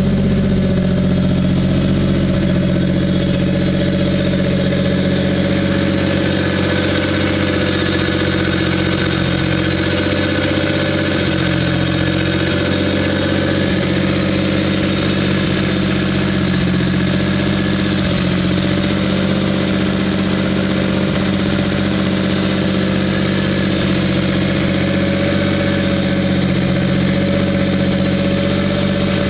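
Lakes modified race car's engine idling steadily while it warms up after a cold start.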